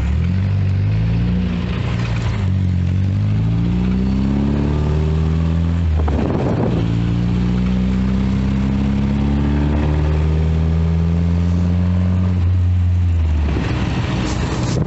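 Triumph Spitfire 1500's four-cylinder engine pulling under acceleration, its note rising steadily. About six seconds in there is a gear change, and the note then climbs again. Near the end the engine note drops away into wind and road noise.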